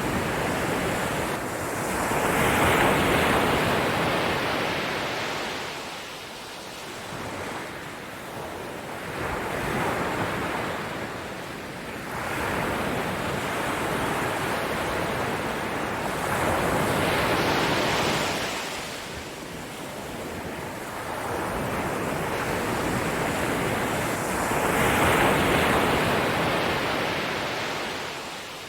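Ocean waves washing in and drawing back, a steady rush of surf that swells and fades every few seconds.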